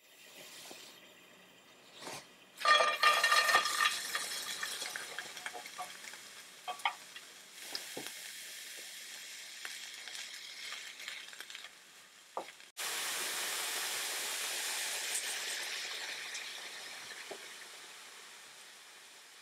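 Chopped cabbage frying in oil in a frying pan: a loud burst of sizzling about three seconds in, then a spatula stirring with scattered scrapes and taps against the pan. Near two-thirds through, a steady frying sizzle starts suddenly and slowly fades.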